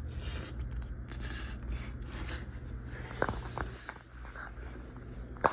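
A person chewing a mouthful of pasta, heard faintly over a steady low room hum, with soft rustles and a few sharp clicks.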